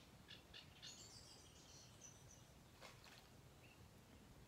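Near silence with faint, high bird chirps and calls scattered through it, and one faint tick about three seconds in.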